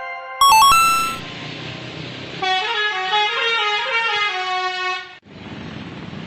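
A brief high electronic chime, then a telolet-style multi-tone bus horn playing a warbling melody for about two and a half seconds before cutting off.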